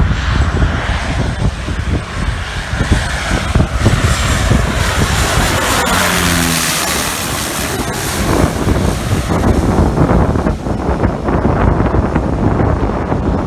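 A propeller aircraft passing close by, its engine note falling in pitch as it goes past about six seconds in, with wind buffeting the microphone.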